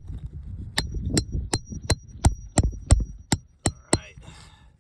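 Hammer striking a metal nail puller about ten times in a steady run, roughly three blows a second, with a high metallic ring after each blow, driving the puller under a roofing nail in an asphalt shingle. The blows stop a little after four seconds in.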